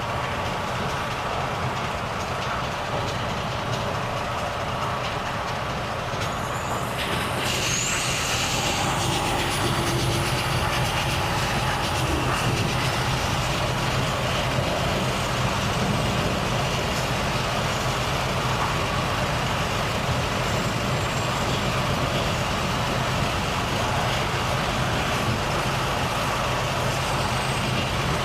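Volvo FH truck's diesel engine running steadily on the road. About seven seconds in there is a short burst of hiss, and after it the engine runs a little louder.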